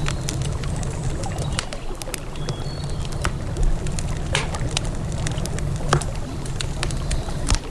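Wood campfire crackling, with irregular sharp pops and snaps, over a steady low rush of river water.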